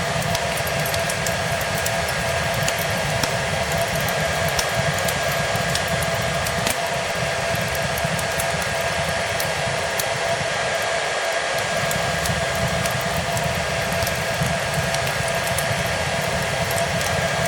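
Hair dryer running steadily: a constant rushing hiss with a faint, even motor whine. Mixed with it are the small scattered pops and crackles of a fireplace.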